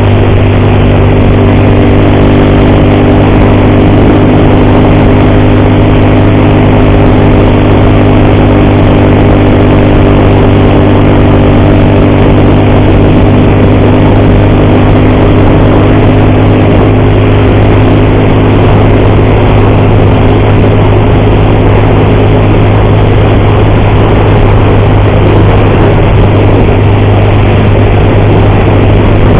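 Motorcycle engine running at a steady speed while riding, with a constant pitch. The rider hears an ugly noise from the cam chain that he says keeps getting louder, even though the bike delivers power normally.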